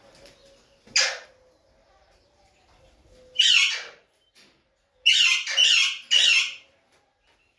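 Alexandrine parakeets squawking with loud, harsh calls: a short one about a second in, a longer one midway, then three quick squawks in a row.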